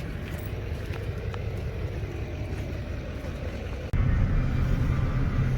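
Low, steady rumble of a car on the move, heard from inside the cabin, which gets suddenly louder about four seconds in.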